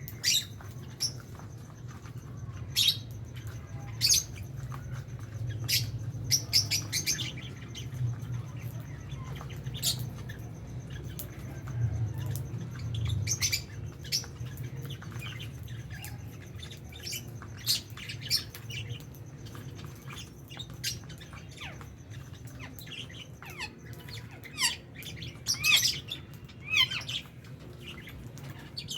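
A flock of lovebirds chirping: many short, sharp, high chirps and squeaks scattered irregularly, busier near the end, over a steady low hum.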